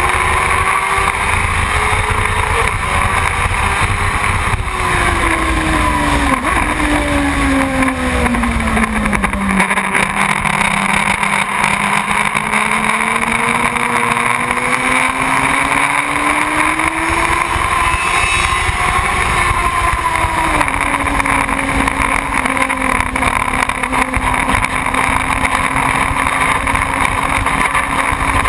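Motorcycle engine running under way over rushing wind noise on the microphone. Its pitch sinks over several seconds, climbs again, then drops suddenly about two-thirds of the way in, as at a gear change, and holds steady.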